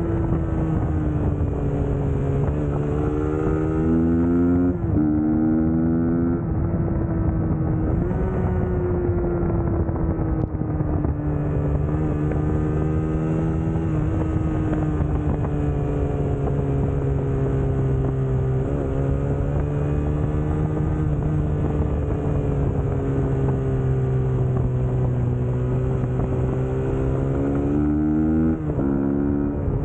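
Suzuki GSX-S150's single-cylinder engine under way. Its pitch climbs and drops abruptly at gear changes in the first few seconds and again near the end, with a long stretch of steady cruising in between where the revs slowly rise and fall.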